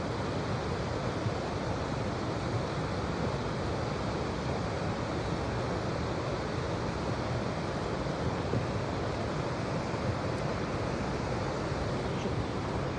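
Flowing river water, a steady rushing noise with no breaks.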